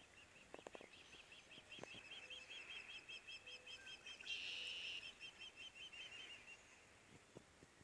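A small bird giving a long, rapid series of high chirps, several a second, that stops about a second before the end. A short hiss about halfway through is briefly the loudest sound.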